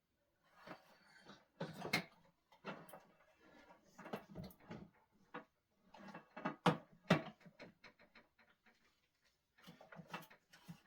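Irregular clicks, knocks and rustles of small objects being handled, coming in several short clusters with brief pauses between them.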